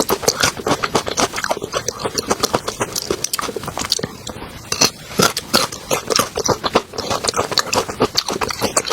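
Close-miked chewing and biting of food in the mouth: a dense, irregular run of quick clicks and smacks throughout.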